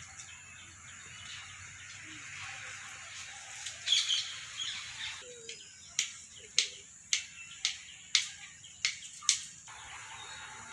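Birds chirping in the background, with a few chirps about four seconds in. Later comes a run of about eight sharp, short sounds, roughly two a second, that stops about nine and a half seconds in.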